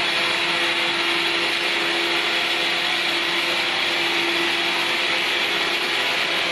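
A machine running steadily: an even, rushing whir with a faint steady hum beneath it.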